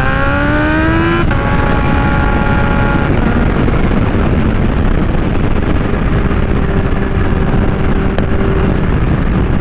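Kawasaki Ninja H2's supercharged inline-four through an unbaffled Vandemon exhaust, loud, accelerating with rising pitch, then dropping sharply at a gear change about a second in. It holds a steady note for a couple of seconds before a rush of wind and road noise takes over as it cruises.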